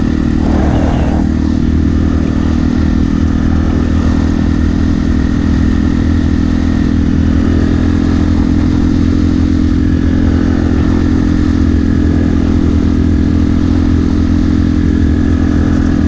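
2005 Yamaha TT-R250 dirt bike's single-cylinder four-stroke engine running at a steady, even speed while riding, with no revving.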